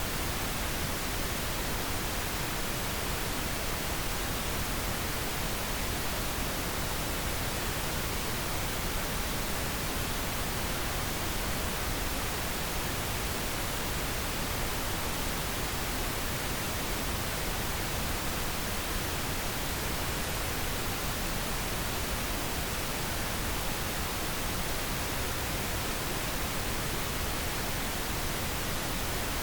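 Steady pink noise: an even, unchanging hiss spread across the whole range, with no events or variation.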